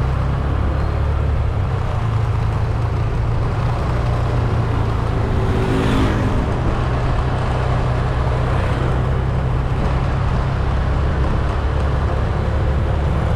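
Steady low rumble of a car driving along a road, engine and tyre noise, with a brief swell of noise about six seconds in.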